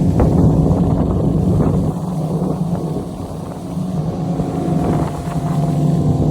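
Outboard motor of a small flats boat running steadily under way, a steady engine hum over rushing water, with wind buffeting the microphone. The level dips slightly around the middle, then comes back up.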